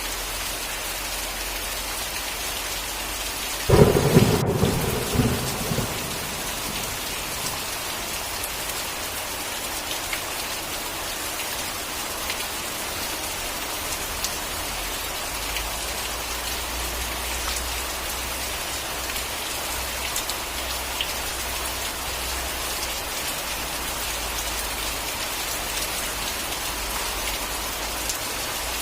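Steady rain falling, with one sudden clap of thunder about four seconds in that rumbles away over a couple of seconds.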